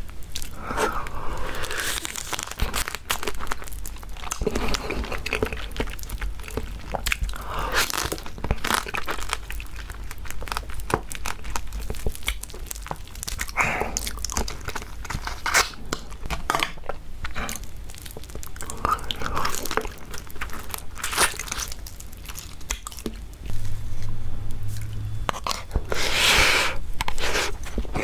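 Close-miked crunching and chewing of raw marinated crab in the shell, with many sharp cracks and clicks between the bites.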